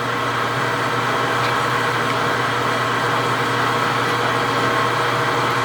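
Precision Matthews 1640 metal lathe running steadily in its low range at about 105 RPM while a drill fed from the tailstock cuts into a solid cold-rolled steel bar with coolant. It is a steady hum holding a few constant tones over an even hiss, with no change in pace.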